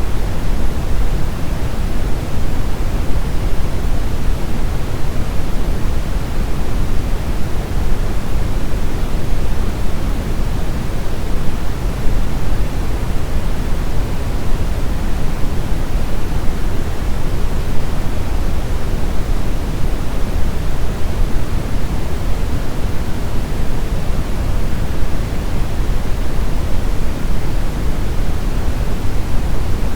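Steady brown noise: an even, deep rushing hiss, strongest in the bass and rolling off toward the highs, with no changes or breaks.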